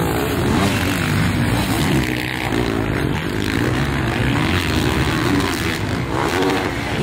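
Several dirt bike engines revving up and down, rising and falling in pitch as they run through the gears, over a constant noisy background.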